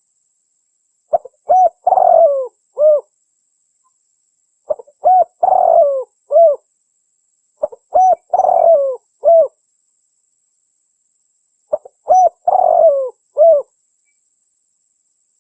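Spotted dove (tekukur) cooing: four repeated phrases about three and a half seconds apart, each a few short coos around one longer, drawn-out coo. It is a lure call recording, played to attract wild spotted doves for trapping.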